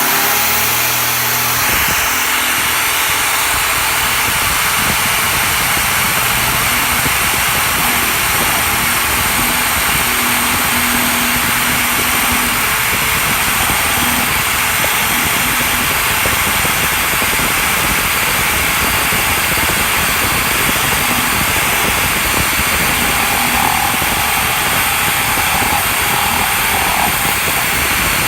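Electric drill running steadily at speed, driving a homemade wooden wood-carving lathe: a loud, even whir with no breaks.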